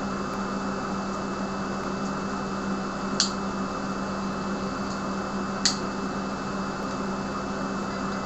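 Steady low hum with background hiss, broken by two short sharp clicks about two and a half seconds apart.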